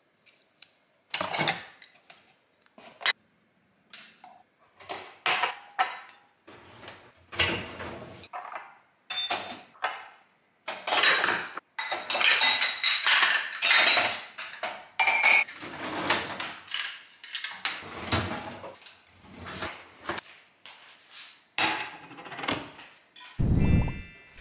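Ceramic cups, saucers and plates clinking and clattering as they are handled and stacked into a dishwasher rack: irregular knocks, sparse at first and coming thick and fast from several seconds in.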